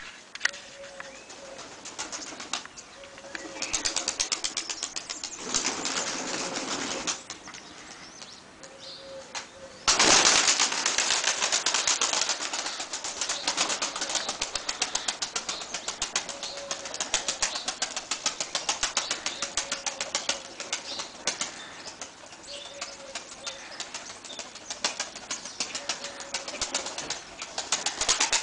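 Takla tumbler pigeons flapping their wings in fast, rapid beats. A sudden loud flurry of wingbeats about a third of the way in is followed by steady flapping.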